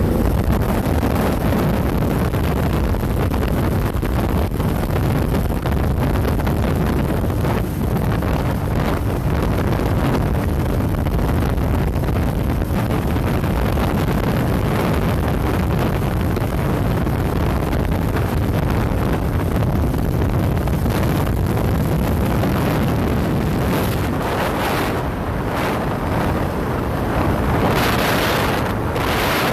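Wind rushing over the microphone of a motorcycle riding at speed, with the bike's engine and road noise running underneath; a loud, steady rush that swells briefly near the end.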